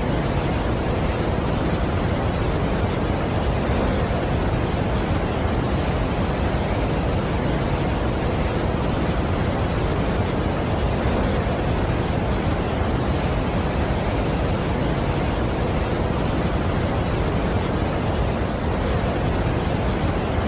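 Steady, unbroken roar of a large waterfall: an even rushing noise, heaviest in the low end, with no changes or separate events.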